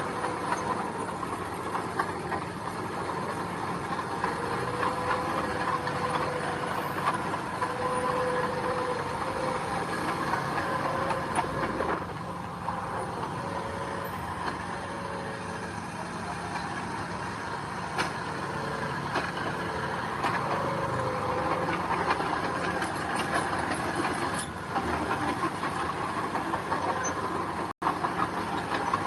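Heavy diesel earthmoving machinery running steadily at work, with a wavering whine that comes and goes over the engine.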